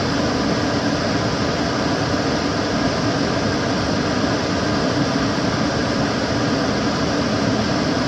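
Kitchen cooker hood extractor fan running steadily: an even rush of air with a low hum, no changes.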